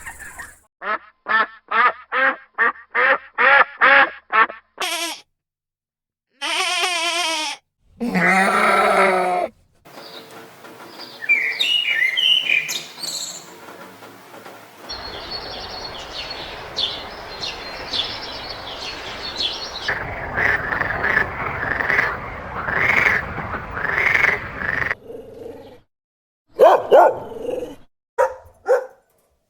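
A quick montage of different farm-animal calls, cut one after another. It opens with a rapid run of about ten short calls, followed by a wavering call, a louder call, a stretch of bird chirping, and more repeated animal calls.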